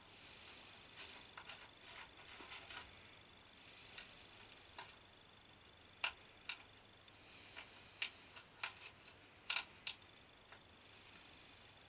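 Faint clicks and taps from hands working on small parts, with a soft hiss about every three and a half seconds.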